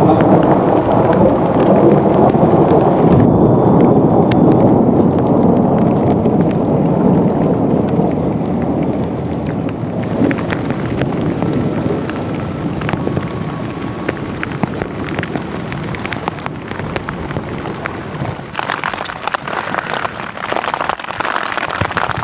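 Heavy rain falling during a thunderstorm, with a long low roll of thunder that slowly dies away over the first half, leaving the patter and ticks of raindrops.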